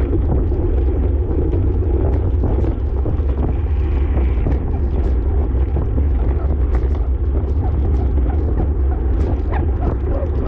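Steady wind buffeting on a camera microphone with a strong low rumble and hiss while a racing bicycle is ridden at speed on a wet road, with scattered small clicks and rattles.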